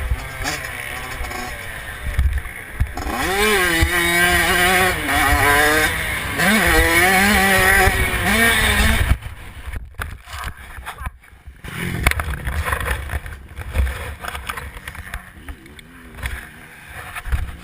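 Motocross bike engines revving, their pitch rising and falling, loud for the first nine seconds or so and then cut off abruptly to quieter, uneven engine noise.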